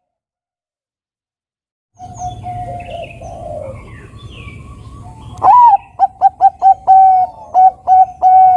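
Silence for about two seconds, then a Bangkok-type perkutut (zebra dove) singing: a steady low coo, and from about halfway a loud run of short staccato coo notes ending in a longer held note. Fainter high chirps sound behind it early on.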